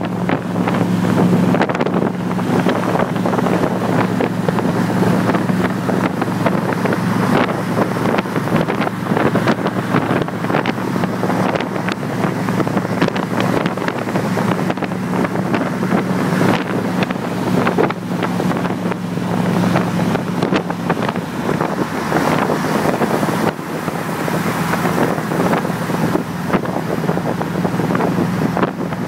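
1977 Corvette's 350 small-block V8 running under way on a freshly rebuilt carburetor, its engine note holding fairly steady, under heavy wind noise buffeting the microphone.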